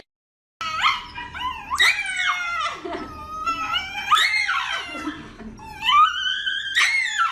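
A dog making a string of about five long, high whining calls that glide up and down in pitch, beginning after a short silence.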